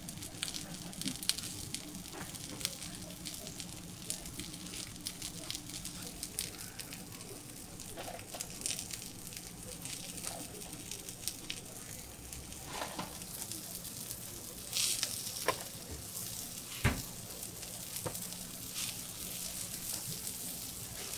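Takoyaki batter and whole baby octopus sizzling on a hot takoyaki griddle: a steady hiss full of small crackles over a low hum. A few sharp knocks, the loudest about 17 seconds in.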